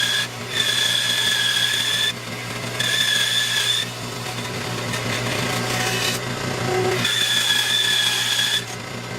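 Bandsaw running, its blade cutting through stacked black walnut, with a steady motor hum under it. A high whine comes and goes three times, lasting one to two seconds each time.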